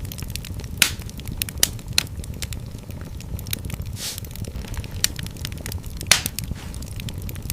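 Fire in a fireplace crackling, with many small sharp snaps over a steady low rumble of flames. Several louder pops stand out, about a second in, near two seconds and near six seconds, and there is a brief hiss about halfway through.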